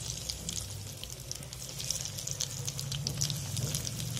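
Breadcrumb-coated potato fingers sizzling and crackling in hot oil in a frying pan. The sizzle starts abruptly as they go in and keeps up with dense popping over a low steady hum.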